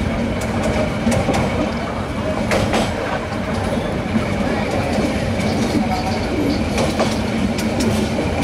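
Train running along the track: a steady rumble and low hum, with scattered sharp clicks of the wheels passing over rail joints.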